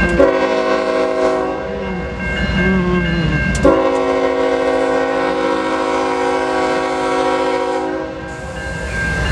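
Diesel freight locomotive's multi-chime air horn sounding two long blasts for the grade crossing, the first under two seconds and the second about four seconds long, over the rumble of the slow-moving train. The crossing bell keeps ringing throughout.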